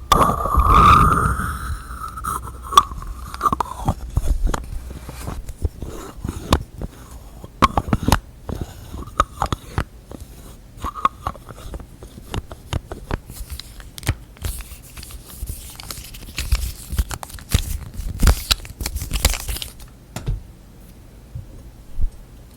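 Close-up tapping, clicking and scratching of fingers on small objects and container lids, irregular and without rhythm. A ringing tone sounds near the start. A denser scratching, rustling passage comes a few seconds before the end, then the sounds stop.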